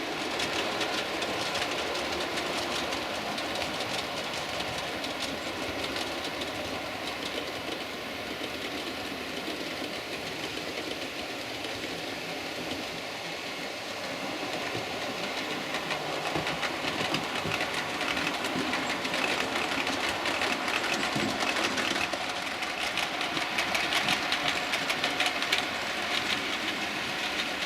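Several model trains running on the layout's track: a steady whirr of small motors and wheels, with rapid fine clicking of wheels over the rail joints, getting a little louder about halfway through.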